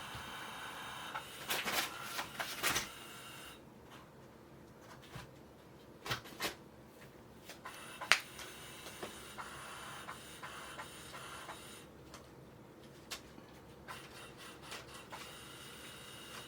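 Kittens playing with toys: scattered light taps, clicks and rubbing sounds over a steady background hum, with one sharp click about eight seconds in.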